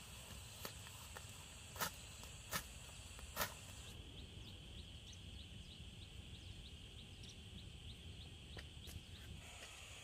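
Steady chirring of insects such as crickets, with three sharp knocks in the first few seconds and a run of small short chirps after them.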